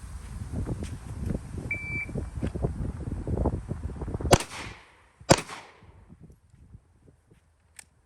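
A shot timer beeps once, then about two and a half seconds later a Glock 19 9mm pistol fires two shots a second apart, shot one-handed, each crack ringing briefly. Wind buffets the microphone until the shots.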